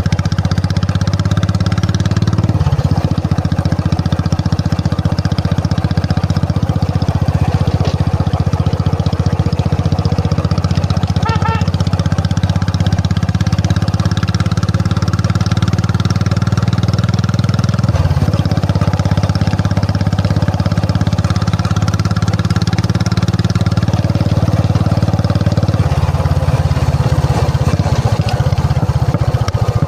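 Royal Enfield Classic 350's single-cylinder engine running steadily with a dense, even exhaust beat. Its note shifts briefly about three seconds in, again around eighteen seconds and again near twenty-six seconds.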